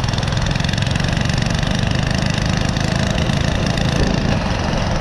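Small single-cylinder engine of a mini bike or go-kart running steadily under way, with a rapid, even putter.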